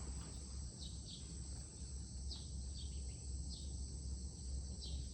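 Outdoor ambience: a steady high insect drone with a bird giving short falling chirps every second or so, over a low rumble.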